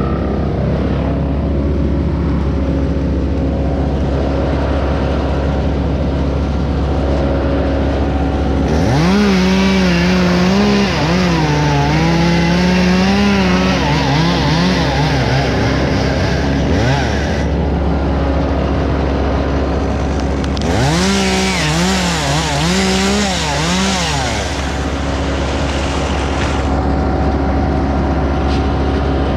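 Chainsaw cutting in two bursts, the first about eight seconds long and the second about six, its engine note wavering up and down under load. A steady engine drone runs underneath throughout.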